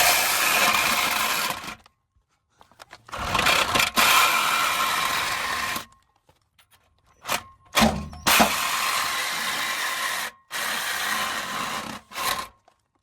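A power cutting tool cutting through a steel exhaust pipe to take the muffler off. It runs in four spells of about two seconds each, stopping briefly between them.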